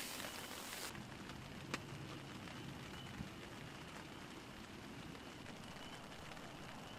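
Light rain falling on the tent, a faint even patter, with two sharp single clicks, one about two seconds in and one about three seconds in.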